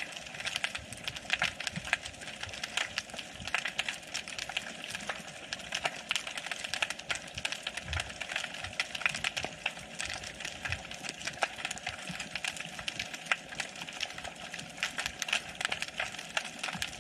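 Underwater crackling, heard through a GoPro's waterproof housing: a dense, unbroken stream of sharp clicks typical of a colony of snapping shrimp on a rocky seabed.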